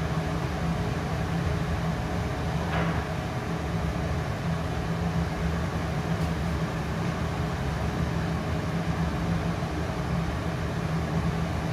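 Trotec Speedy 100 laser cutter running, giving a steady, even mechanical hum.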